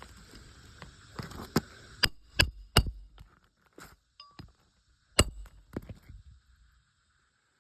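Hammer blows on roofing nails in an asphalt shingle roof, sharp metallic clinks. A quick run of about four strikes comes a second and a half in, then a single strike at about five seconds, with lighter taps between.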